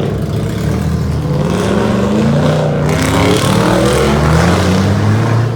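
Truck engine revving loudly, its pitch climbing about halfway through and then holding high.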